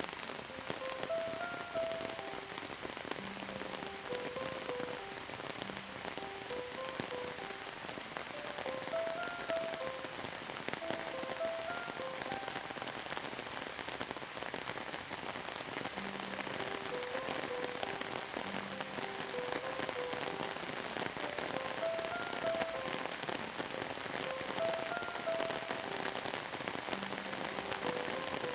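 Steady rain falling in a dense, even patter, with a soft melody of short, gentle notes playing under it.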